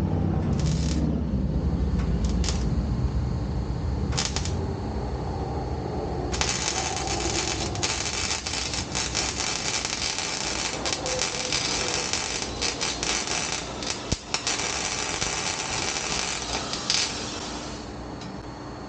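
A low rumble for the first few seconds, then a welding arc crackling and sputtering steadily for about eleven seconds as an exhaust pipe is welded, stopping near the end.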